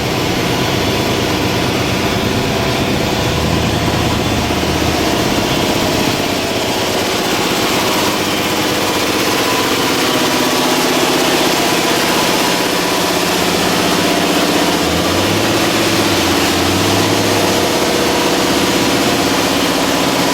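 A vehicle engine running steadily near idle, its pitch drifting slightly up and down.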